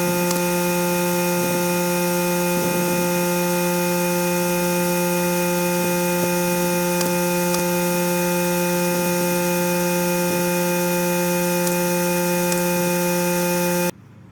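A steady machine hum at one unchanging pitch, with faint ticks and knocks over it; it cuts off abruptly near the end.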